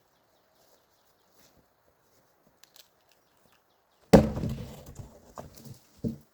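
A heavy thud about four seconds in, with a low rumble dying away over a second and a half, then a few smaller knocks: a heavy piece of wood dropped or landing.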